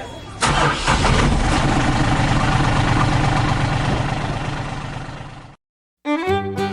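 Homemade mini tractor's motor running steadily, fading and then cutting off about five and a half seconds in.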